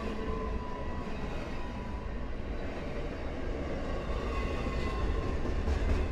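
Norfolk Southern freight train rolling past, a steady rumble of wheels on rail with faint thin tones coming and going.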